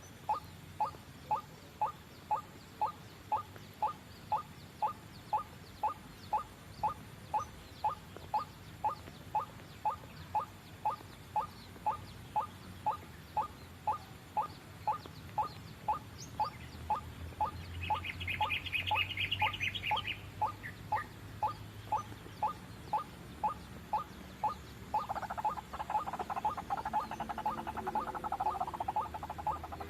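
White-breasted waterhen (ruak-ruak) lure call: a short rising note repeated evenly about twice a second. A brief higher chatter comes about two-thirds of the way in, and a denser bout of calling joins in over the last few seconds.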